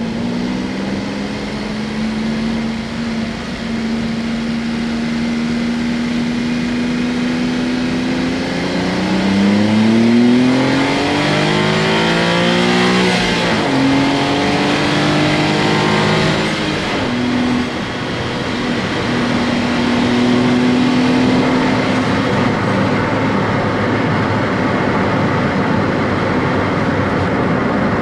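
Honda S660's small turbocharged three-cylinder engine, heard from the car, holding a steady pitch. It then accelerates hard, its note rising twice and dropping sharply at each upshift. Afterwards it settles to a steady cruise that fades into road and wind noise.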